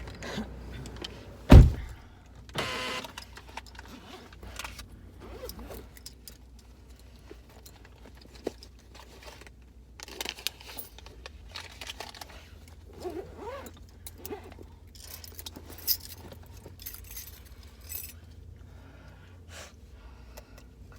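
Handling noises: scattered clicks, rattles and rustles over a low steady hum, with one loud thump about a second and a half in.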